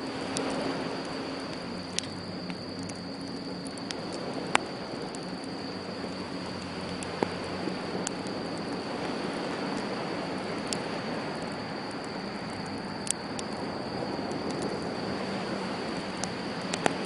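Wood campfire crackling, with a sharp pop every few seconds, over a steady wash of sea waves.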